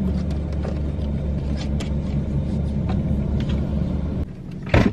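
Car engine idling with a steady low hum, with scattered small clicks over it. The hum stops abruptly about four seconds in, followed by a single loud thump near the end.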